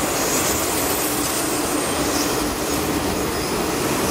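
Taiwan Railways passenger carriages rolling past close by, with a steady noise of steel wheels running on the rails.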